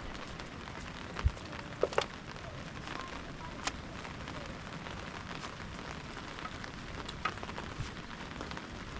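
Steady rain pattering, with scattered sharp clicks and drips and one low thump about a second in.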